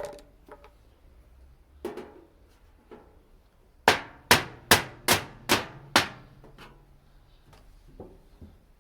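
Hammer striking metal on an empty rice-cracker tin, as when driving a flathead screwdriver through it to punch holes: a couple of scattered knocks, then a quick run of six sharp strikes about two or three a second, then a few lighter taps.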